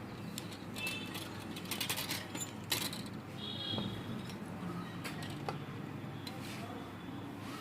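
Small clicks and rattles of parts being handled, with a close run of clicks about two seconds in and a sharper knock just before three seconds, over a low steady hum.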